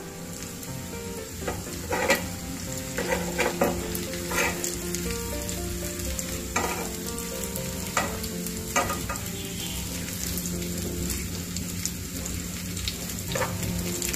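Muthiya shallow-frying in hot oil with sesame and mustard-seed tempering in a non-stick frying pan, sizzling steadily. A spatula turns the pieces one by one, giving several scraping taps against the pan.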